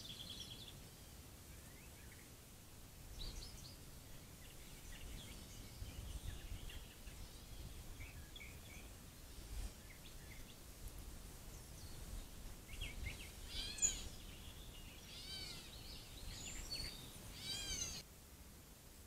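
Wild birds calling and singing, with runs of quick repeated arching chirps in the second half, over a low background rumble.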